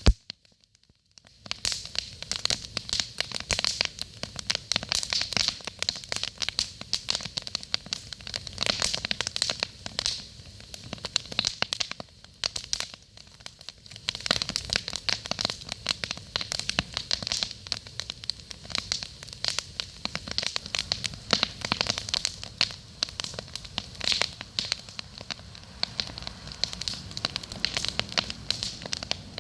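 Campfire crackling and popping, a dense, irregular run of sharp snaps. It drops out briefly just after the start.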